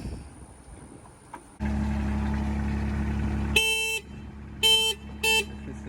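A diesel engine idling steadily, starting abruptly about a second and a half in, then a vehicle horn sounded in three toots over it: a longer one about halfway through, followed by two short ones.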